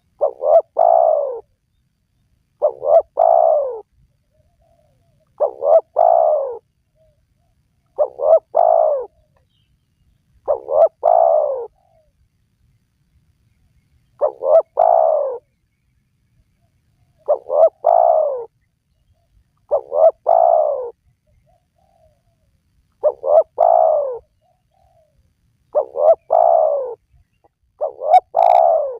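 Spotted dove (tekukur) cooing: a phrase of two or three low coos, about a second long, repeated every two to three seconds, eleven times, with a couple of slightly longer pauses.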